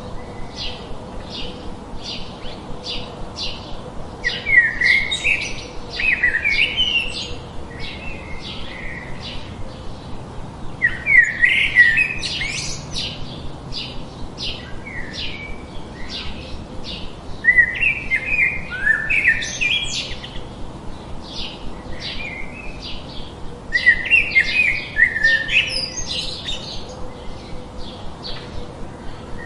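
Birdsong: a steady series of short, high chips, about three a second, broken every six seconds or so by a louder warbled song phrase.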